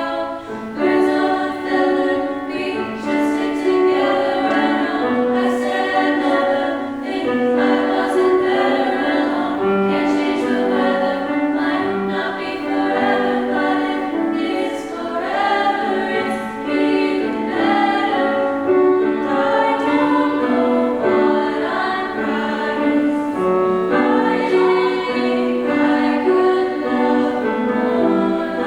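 A cappella vocal group singing in harmony, several voices holding chords that move from note to note.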